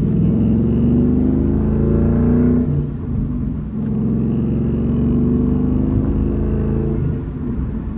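2014 Ford Mustang GT's 5.0-litre Coyote V8 running as the car is driven, its note easing briefly about three seconds in and again near the end.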